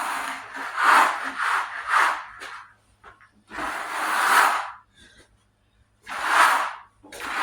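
Rough rubbing or scraping strokes, about half a dozen, each lasting roughly half a second to a second, with short pauses between them.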